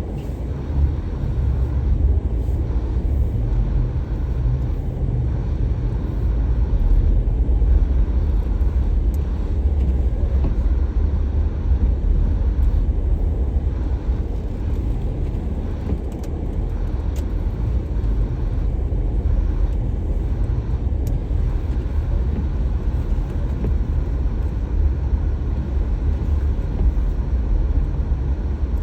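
A car driving: a steady low road and engine rumble that barely changes throughout.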